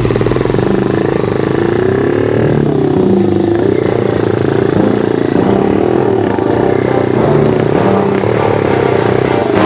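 Small single-cylinder pit bike engine running under way on a trail, its pitch rising and falling as the throttle is worked.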